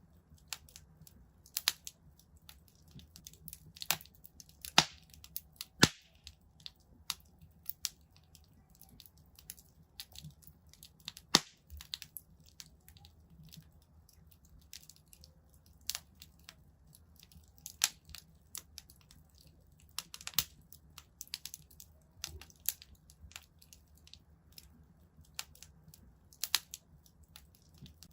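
Wood fire crackling in a fireplace: irregular sharp pops and snaps, a few of them loud, over a faint low rumble.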